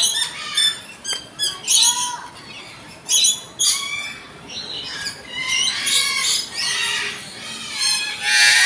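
Parrots calling in a string of short, harsh squawks, the loudest burst near the end.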